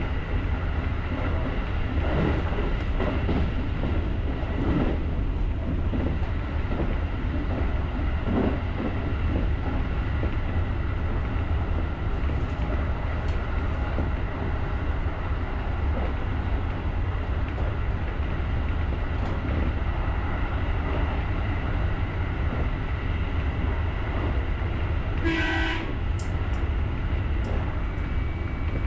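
Electric commuter train running along the line, a steady low rumble with scattered clicks of the wheels over rail joints. Near the end a short horn blast sounds once, about half a second long.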